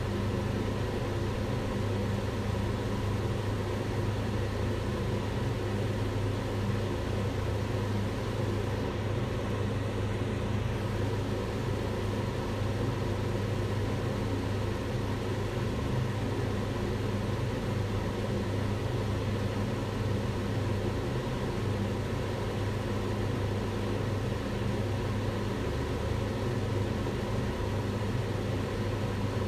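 Kitchen range hood's extractor fan running steadily: a constant low hum with an even airy hiss over it.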